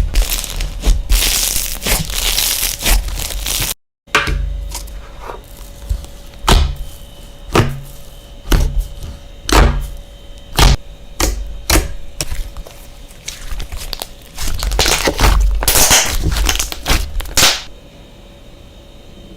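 Slime being handled by hand: a string of sharp pops and clicks about once a second, with stretches of crinkly crackling. The sound stops a little before the end.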